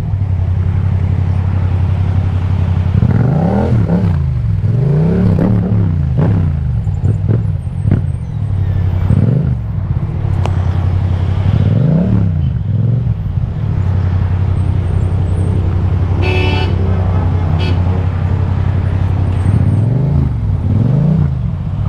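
Yamaha MT-07's 689 cc parallel-twin engine through an Akrapovic exhaust, rising in pitch and dropping back again and again as the bike accelerates and shifts gears. A vehicle horn sounds briefly about sixteen seconds in.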